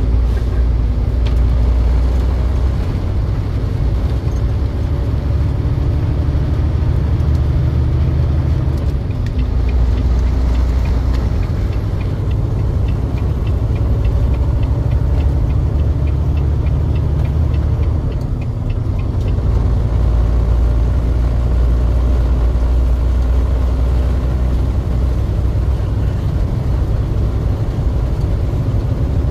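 Truck on the move: a steady low rumble of engine and road noise, easing off slightly twice.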